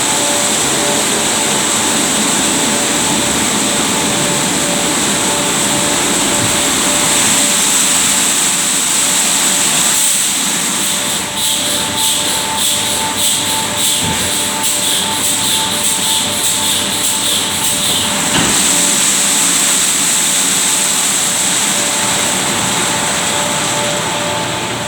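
Christ Genius rollover car wash running, with a loud steady hiss of spray and a steady motor whine. From about ten seconds in, a fast regular beating joins for some eight seconds, then stops.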